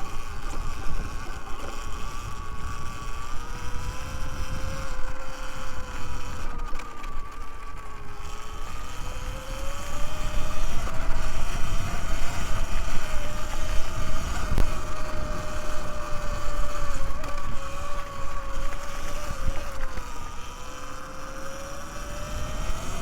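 Electric dirt bike being ridden: the motor's whine rises and falls slowly in pitch with speed, dipping a couple of times, over a low rumble of wind and tyres.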